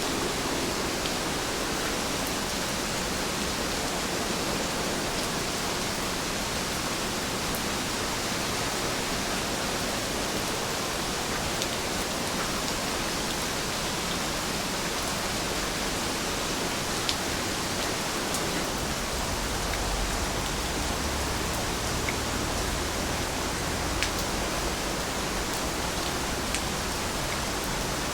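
Steady rainfall, an even hiss with a few sharper drops ticking through it. A low rumble joins underneath from about two-thirds of the way in.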